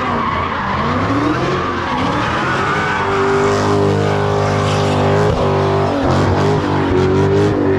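Car engine revved up and down, then held at high revs from about three seconds in, with tyres squealing as the car spins its wheels at a street takeover.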